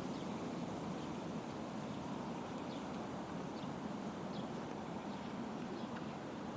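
Faint short bird chirps, about one a second, over a steady low rushing background.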